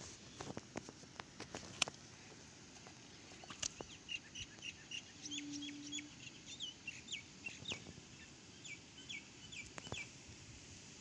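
Birds chirping: a quick run of short, high calls, several a second, starting about three and a half seconds in and stopping near the end. A few sharp clicks come in the first two seconds, and a brief low hum sounds around the middle.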